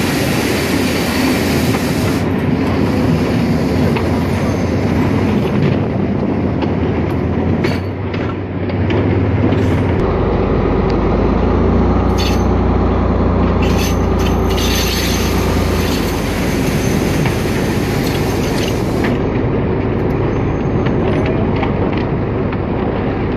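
A train running along the track, heard from on board: a steady rumble and rattle of wheels on rail, broken by many short clicks. A deeper drone joins about ten seconds in and fades a few seconds later.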